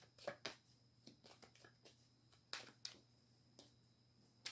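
Faint, scattered snaps and taps of a deck of reading cards being handled: a dozen or so short clicks, a few louder ones about half a second in, near the middle and at the end.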